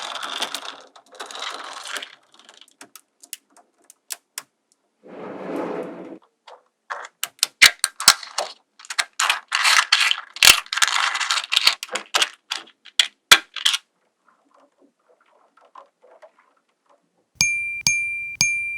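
Small magnetic balls clicking and clattering against each other as they are snapped together and pulled apart, in bursts of rapid clicks with pauses between. Near the end a high ringing ding repeats a few times.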